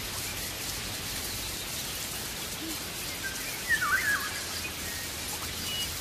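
A bird gives one short call that dips and rises in pitch about four seconds in, over a steady high hiss of forest background.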